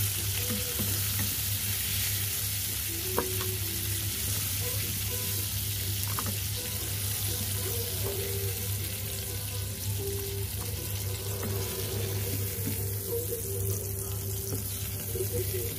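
Shrimp frying in hot oil in a nonstick pan, sizzling steadily, while a wooden spatula stirs and lifts the half-cooked shrimp out of the pan. There is a single brief click about three seconds in.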